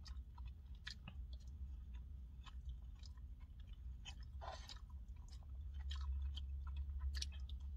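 A person chewing mouthfuls of carne asada steak, with small clicks and scrapes of a plastic fork in a paper bowl scattered throughout. A steady low hum runs underneath and swells a little near the end.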